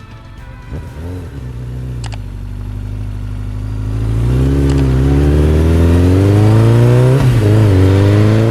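Motorcycle engine accelerating hard through the gears, its pitch climbing and dropping briefly at each of about four gear changes as it gets louder.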